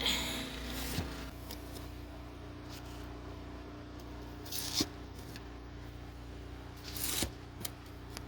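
Three short scraping swishes of snow being scraped or scooped, over a steady low hum.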